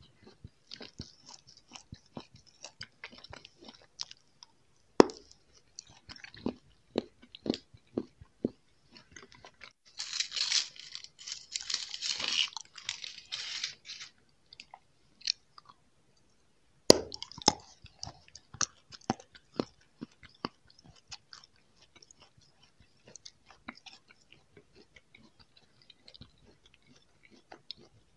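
Close-miked biting and chewing of a chocolate heart on a stick: sharp snaps of a bite about five seconds in and again about seventeen seconds in, with a stretch of dense crunchy chewing between about ten and fourteen seconds and softer chewing clicks the rest of the time.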